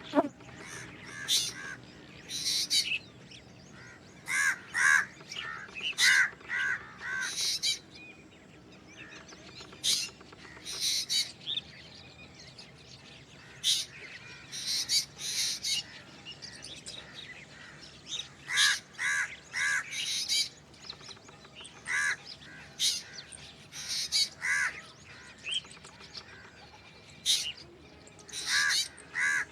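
Black drongo calling: short, harsh, rasping notes and brief pitched whistles, given in quick clusters of several notes with short pauses between the clusters.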